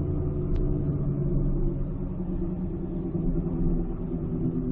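Cabin sound of a 2006 Ford Escape Hybrid on the move: steady road rumble with a low, steady hum, the noise the owner hears as coming from the front and suspects is a wheel bearing.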